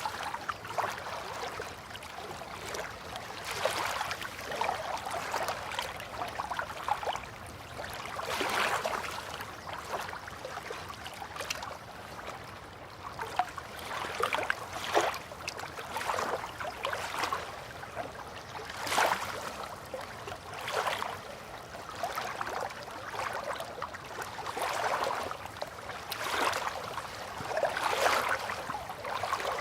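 Water lapping gently in swells every two to three seconds, with small splashes and trickles.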